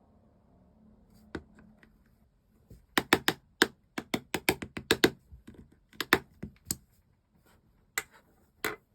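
Slime being pressed and squished by hand, giving a run of sharp sticky clicks and pops, densest from about three to seven seconds in, with two more near the end.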